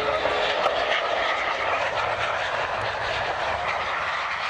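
Fixed-wing aircraft engine noise: a steady rushing sound with no breaks.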